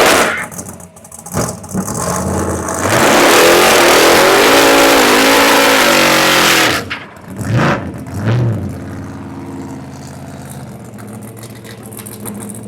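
Car engine held at high revs in a burnout, its pitch swinging up and down over a loud hiss of spinning tyres, then dropping off about seven seconds in. Two short blips of the throttle follow, and then it settles to a lower, steady run. The car is pulling against its brakes, which are not enough to hold it back.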